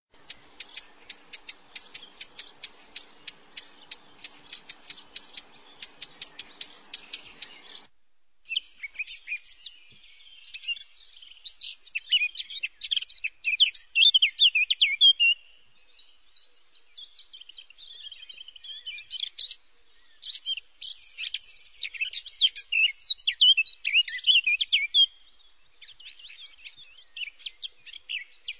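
Birds singing: for about the first eight seconds a fast, even run of chirps, about four a second, then after a short break a busier mix of varied chirps and trills.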